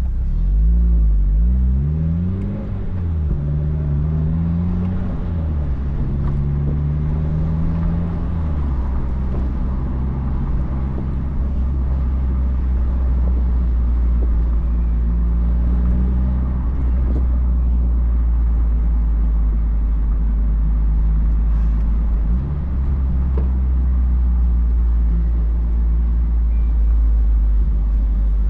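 2004 Mazdaspeed Miata's turbocharged four-cylinder engine, heard through its Flyin' Miata cat-back exhaust, accelerating through the gears. Its pitch climbs and drops back at each of three shifts in the first nine seconds, then it holds steady revs with a low drone while cruising.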